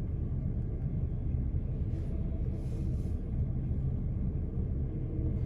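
LIRR M7 electric multiple-unit train rolling past, a steady low rumble of wheels and motors.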